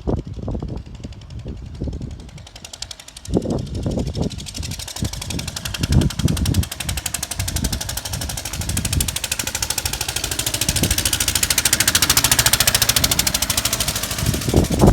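Lister stationary engine running with a fast, even beat, getting louder through the middle, after a few irregular low thumps at first.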